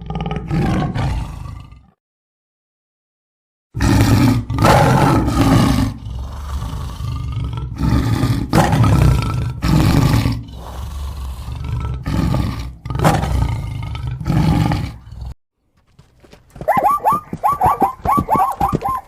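A tiger roaring, over and over, with a pause of about two seconds near the start. Near the end, a different animal's quick run of short, pitched calls begins.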